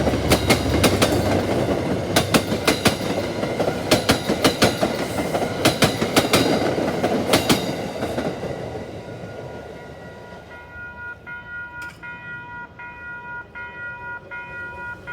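Railroad cars rolling past with a rhythmic clickety-clack of wheels over rail joints and a steady rumble, fading away about eight to ten seconds in as the train moves off. A steady ringing tone of several pitches, pulsing a little under twice a second, follows near the end.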